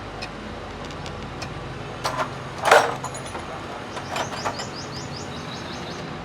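Metal clanks and taps of hand tools on engine parts over a steady background hum, the loudest clank about two and a half seconds in with a brief ring, then a quick run of short high squeaks.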